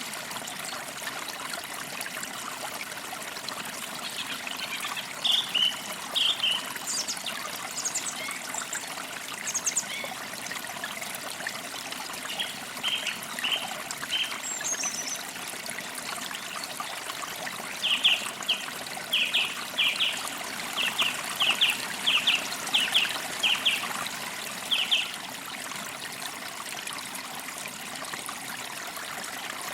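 Forest creek water trickling steadily, with small birds chirping over it. There are scattered short calls, then a run of quick chirps, about two a second, from about 18 to 25 seconds in.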